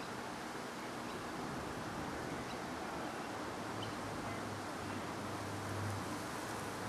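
Steady outdoor background noise. A low hum, like a distant vehicle, comes in about halfway through and grows louder.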